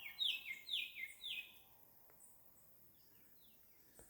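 Bird calling: a quick run of about five short chirps, each falling in pitch, in the first second and a half, then two fainter ones around three seconds in.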